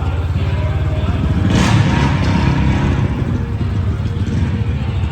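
Diesel pickup truck engine running with a low, steady rumble, swelling into a brief louder rush about a second and a half in.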